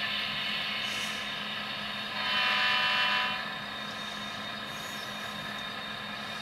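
Model locomotive sound decoder (Tsunami, EMD 645 diesel sound set) playing diesel engine sound through the locomotive's small speaker, running steadily. About two seconds in, a louder stretch of stacked tones lasts about a second.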